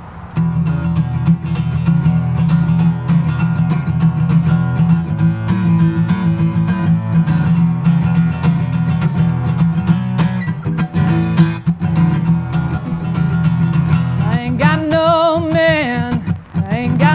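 Acoustic guitar playing the song's intro, starting about half a second in. Near the end a woman's singing voice comes in over the guitar.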